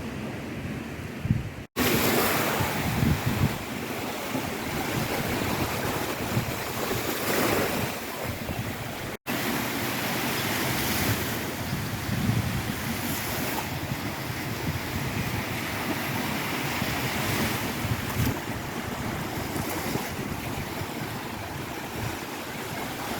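Steady rushing of wind and surf, with wind buffeting the microphone, cut off for a split second twice, about two seconds in and about nine seconds in.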